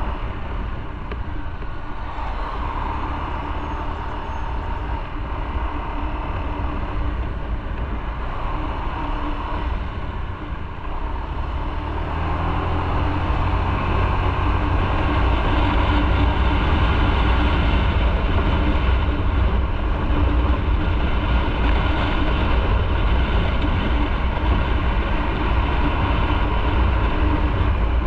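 Motorcycle running on the road, its engine note steady over wind and road rush; the sound grows louder, with more low rumble, about halfway through.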